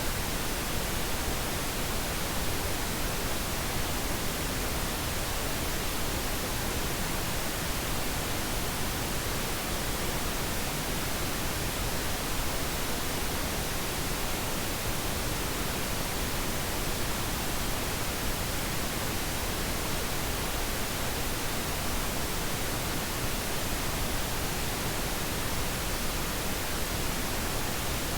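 Steady pink noise: an even, unchanging hiss spread across the whole range, with nothing else in it.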